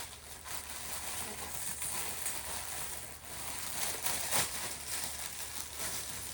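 Rustling and crinkling of packaging and clothing being handled during unpacking, with a sharper crackle about four and a half seconds in.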